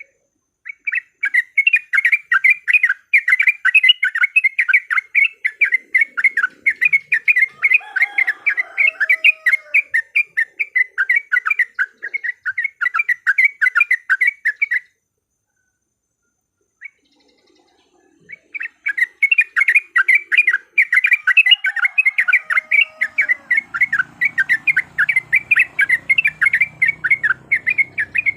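Yellow-vented bulbul (trucukan) giving a loud, fast chattering run of short calls, about six a second, as a lure recording to provoke another bulbul. The run breaks off about halfway for roughly three seconds, then starts again; fainter, lower gliding notes sound under it twice.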